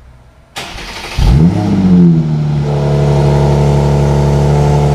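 Mercedes-AMG SLC43's twin-turbo V6 cold-starting: a short burst of cranking about half a second in, then the engine catches with a rising rev flare and settles into a steady fast idle.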